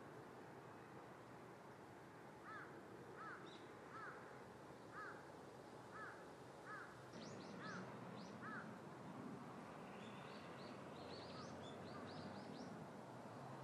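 A bird calling about seven times in an even series, each call a short arched note, over a faint steady outdoor hiss; higher, quicker bird chirps follow in the second half.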